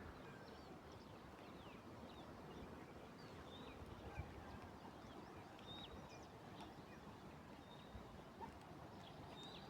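Faint outdoor ambience with scattered short, high bird chirps.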